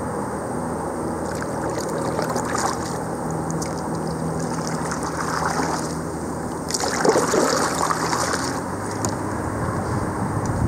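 Water sloshing and trickling around a kayak on a river, swelling now and then, with the loudest splash about seven seconds in.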